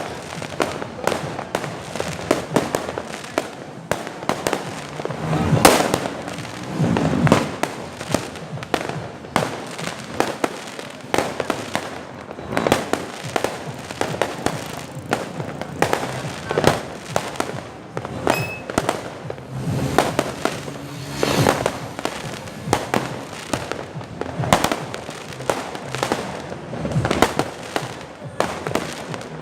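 Fireworks going off continuously: a dense run of bangs and crackling pops, some louder booms standing out.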